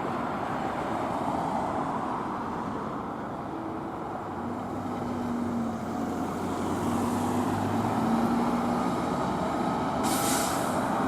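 Fire engine's diesel engine running and growing a little louder as it gets under way, with a short air-brake hiss about ten seconds in.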